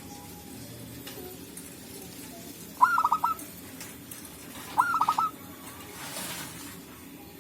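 Zebra dove cooing: two song phrases about two seconds apart, each a quick run of short staccato notes.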